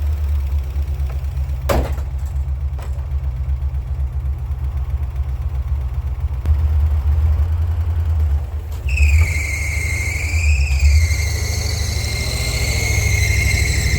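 1967 International 1200 truck engine idling steadily after a cold start, with a lifter ticking. There is a sharp knock about two seconds in, and from about nine seconds in a high whine joins, wavering a little in pitch.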